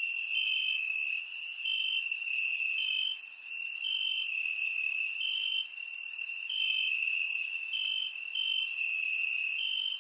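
Crickets chirping: a steady high trill, with shorter chirps repeating about once a second over it.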